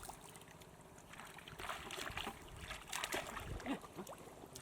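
Shallow water splashing and sloshing in a few irregular bursts.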